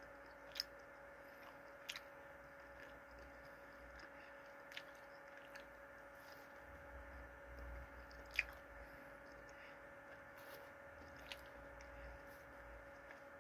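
Faint chewing of a piece of breaded fried chicken, with a few sharp crunches or mouth clicks scattered through, the loudest about eight seconds in. A faint steady hum sits underneath.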